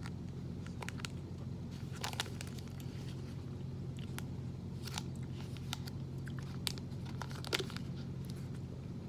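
Close-up chewing and biting of a chewy peanut butter and dark chocolate protein bar with nuts, with scattered small mouth clicks and crunches, the sharpest a little after seven and a half seconds in. A steady low hum runs underneath.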